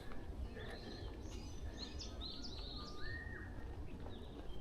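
Forest birds calling: a run of short repeated chirps, with one longer whistled note about three seconds in, over a low steady background rumble.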